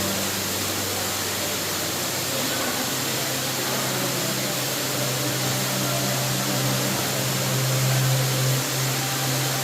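Underground waterfall in a cave: a steady rush of falling water, with a low steady hum underneath that grows louder about halfway through.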